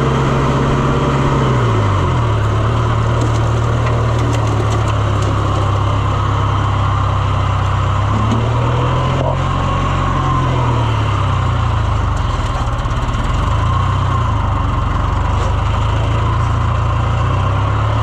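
Farm tractor engine running steadily. Its speed drops about two seconds in, picks up again around the middle, then rises and falls a little.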